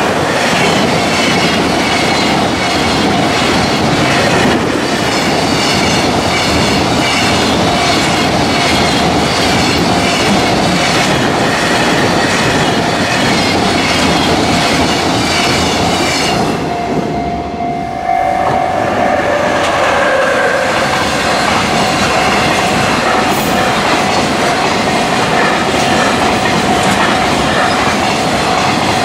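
Long container freight train passing at speed, its wheels clattering rhythmically over the rail joints, with a level-crossing warning bell ringing steadily under it. The clatter eases briefly about 17 seconds in, then picks up again.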